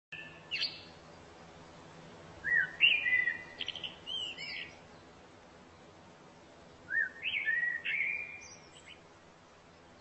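Songbird singing: a brief note, then two phrases of whistled song with rising slurs and held notes, each about two seconds long and some four seconds apart, over faint steady background noise.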